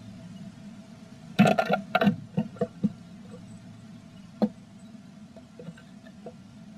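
Sharp taps and scratches of a blue tit moving about inside a wooden nest box, a quick cluster of them from about one and a half to three seconds in and one more a little past the middle, over a steady low hum.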